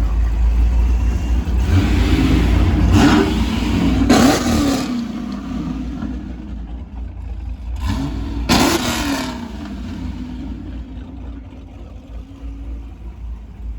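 Modified Pontiac G8 V8 revving through a loud exhaust over a deep, lopey rumble: one long rev about two seconds in and a shorter one about eight seconds in, then settling back to a quieter rumble.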